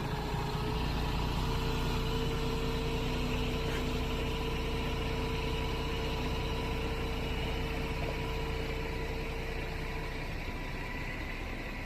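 Roll-off truck idling with a steady low rumble, joined by a steady whine, typical of the tarp system's motor running, that stops about ten seconds in.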